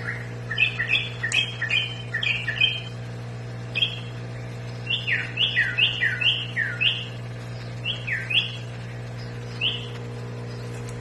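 A kutilang bulbul singing in short phrases of quick, clear whistled notes, many sliding down in pitch. The phrases come about a second in, again around five seconds in, and once more near the end.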